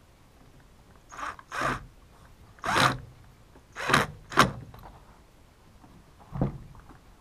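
About six short scrapes and clunks of small chainsaw parts and tools being handled and set down during reassembly.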